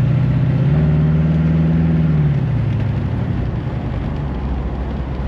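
Ford 460 V8 engine of a car under way: its note rises about a second in, holds, then falls and quietens after a couple of seconds as it eases off.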